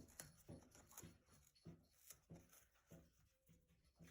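Faint, irregular soft taps and rustles, roughly two a second, of a Congo African grey parrot picking at and tearing toilet paper.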